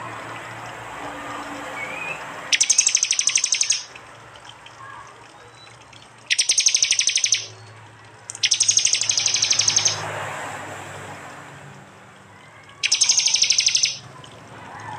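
Prenjak (prinia) song: four loud bursts of very rapid, evenly repeated high-pitched chirps, each about a second long, separated by pauses of a few seconds. These are the sharp 'tembakan' (shot) phrases used to train cage birds.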